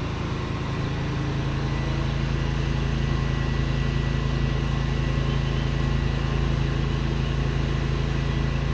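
Pressure washer's gasoline engine running steadily, a low constant hum.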